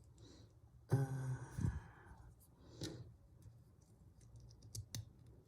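A short voiced sigh about a second in, followed by faint clicking of Lego plastic pieces being handled and pressed together, with two sharp clicks near the end.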